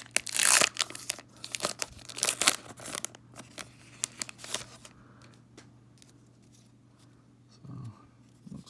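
Baseball card pack wrapper being torn open and crinkled, loudest in the first three seconds, then softer rustling that dies away about five seconds in.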